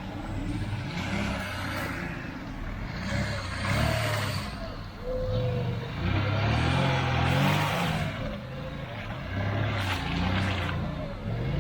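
Off-road vehicle engine revving up and down again and again as it works to get through swamp ground, with bursts of rushing noise in between.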